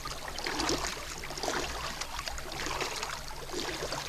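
Kayak paddle strokes: the blades dipping into the water, with irregular splashing and trickling of water running off them, over a low steady rumble.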